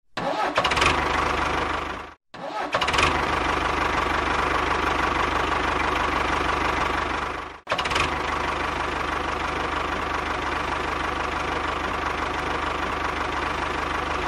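Mini DIY tractor's motor running steadily with a dense mechanical rattle. It breaks off abruptly twice, about two and seven and a half seconds in, and restarts at once each time.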